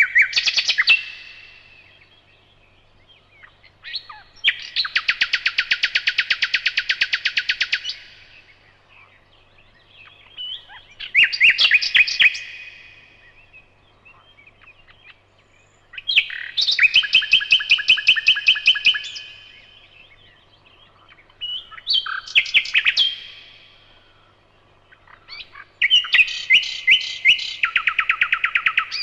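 Nightingale singing: about six separate song phrases, each a rapid run of repeated notes lasting one to four seconds, with pauses of about two seconds between them.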